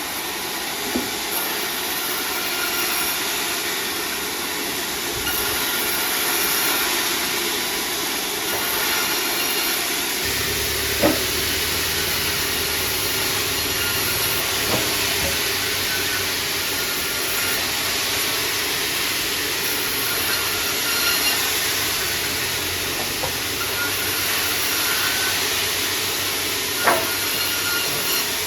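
Sawmill saw running and cutting timber: a steady loud hiss of the blade through wood, a low machine hum joining about ten seconds in, and a few sharp knocks, the loudest near the end.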